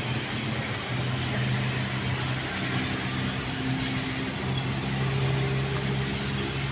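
Steady hiss of rain with a low vehicle engine hum underneath, the hum shifting in pitch a few times.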